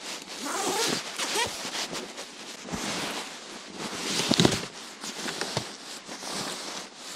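Tent fabric being handled and rustled as the tent is packed up, in irregular scrapes and swishes, with the loudest rustle about four seconds in.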